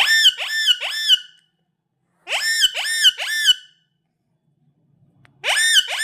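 Pet rose-ringed parakeet giving shrill, rising screeching calls in quick runs of three. There are three such runs, a couple of seconds apart.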